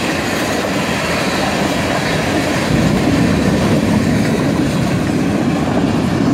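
Freight train cars rolling past close by: a loud, steady noise of steel wheels running on the rails.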